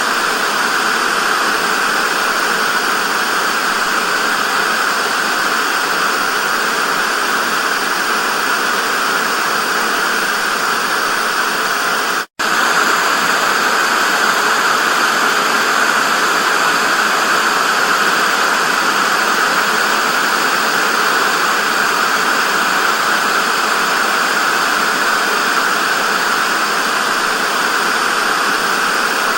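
Television static: a steady, loud hiss, cutting out for a split second about twelve seconds in.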